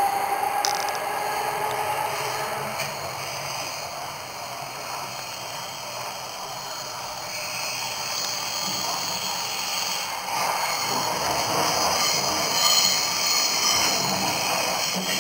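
Berlin S-Bahn Class 485 train heard from inside a moving car: running noise of wheels on rail with the car body clattering. A rising whine fades out in the first second, and the rolling and clatter grow louder in the second half.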